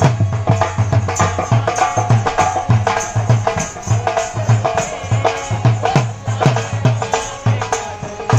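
Rajasthani folk music for dancing, with a steady hand-drum beat under a melody line.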